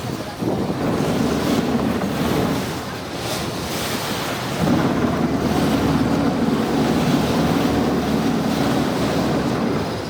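A tour boat's engine running under way, with water rushing past the hull and wind buffeting the microphone. The engine's note drops back for a couple of seconds near the middle, then comes up again.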